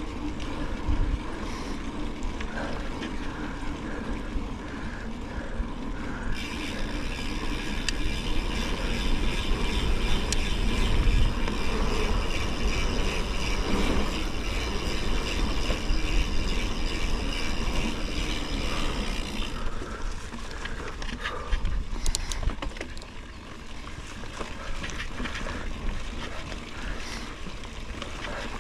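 Mountain bike ridden along a forest trail: wind rushing on the microphone and the bike rattling over the ground. A steady high whirring runs for about thirteen seconds in the middle.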